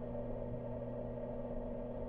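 Sony TC-650 reel-to-reel tape machine running, its motor and transport vibrations picked up through a contact microphone as a steady hum with a low rumble beneath.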